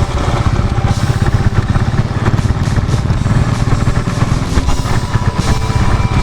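Motorcycle engine running steadily while riding, with rapid low firing pulses, and background music playing over it, its steady tones more evident near the end.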